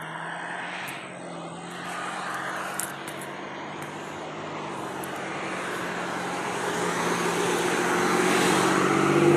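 A steady engine drone with a low hum, growing gradually louder.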